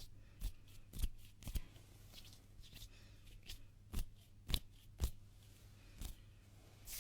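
Hands rubbing together close to the microphone for ASMR: soft dry skin swishes broken by sharp snaps and pats at irregular moments, the loudest a little past four and a half seconds in.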